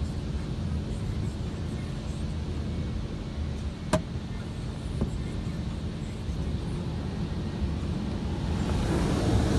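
Automatic car wash during the high-pressure rinse, heard from inside the car: a steady low rumble of the wash machinery, with a sharp click about four seconds in and a fainter one a second later. Near the end a rush of water spray hitting the car grows louder.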